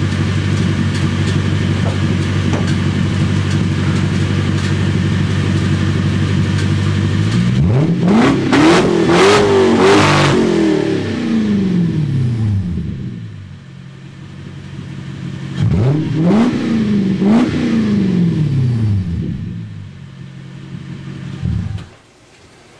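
1993 Lexus SC400's 1UZ-FE 4.0-litre V8, running without its mufflers and with two of its three resonators removed, idles steadily and loudly. About eight seconds in it is revved, the pitch climbing and falling back. It is revved again briefly about sixteen seconds in, then the engine cuts out near the end.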